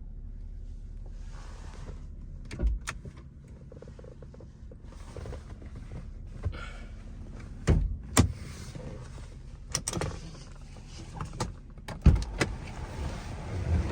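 A 2004 Lexus GS300 idling with a low steady hum, while a series of sharp clicks and knocks sounds over it, some a second or more apart and some in quick pairs, with short stretches of whirring hiss in between.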